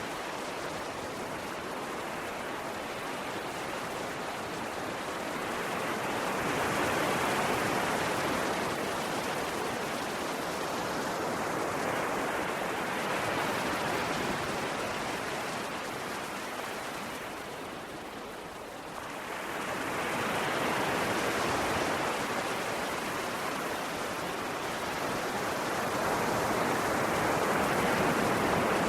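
Ocean waves breaking and washing up the shore in a continuous rush, swelling and easing every several seconds, with a brief lull about two-thirds of the way through.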